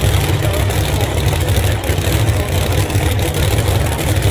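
Pro Mod drag racing car engines idling in a steady low rumble.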